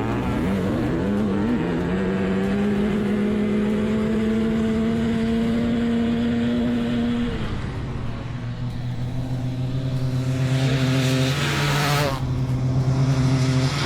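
Dirt bike engines at full throttle in a drag race: big-bore two-strokes, a YZ500 and a 700cc, against a KX450 four-stroke. The engine note climbs slowly and drops at a gear change about a second and a half in and again about seven seconds in, with a brief rush of noise around ten to twelve seconds in.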